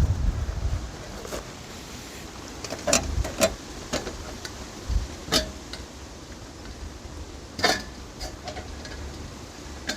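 Scattered sharp clicks and taps from something being handled, about half a dozen spread out, with a low wind rumble on the microphone in the first second.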